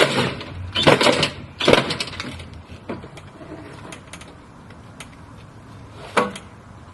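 Plastic toy breaking apart under a lawnmower: loud crackling bursts of breaking at the start, about a second in and near two seconds, then a lower steady running sound with one more short burst near six seconds.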